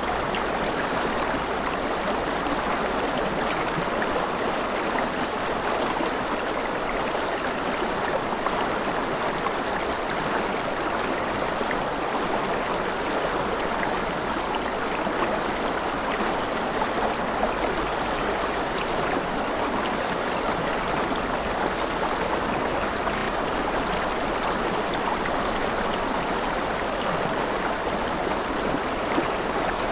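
River water flowing and splashing in a steady, even rush, with small splashes and gurgles scattered through it.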